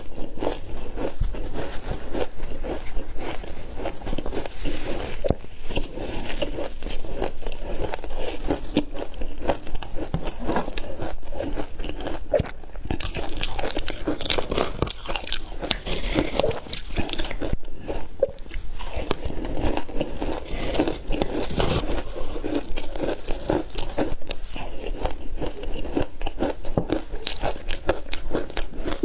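Close-up crunching of ice being bitten and chewed: dense, irregular cracks and crackles with no pause.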